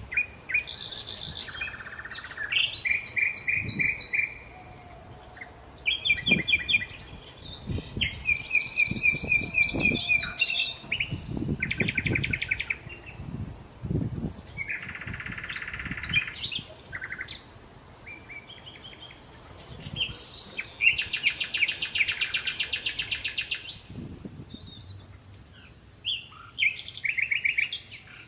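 Songbirds singing and chirping in a steady succession of varied phrases: fast trills, runs of repeated high notes and short chirps, one after another with barely a pause. Softer low rumbles come and go beneath the birdsong.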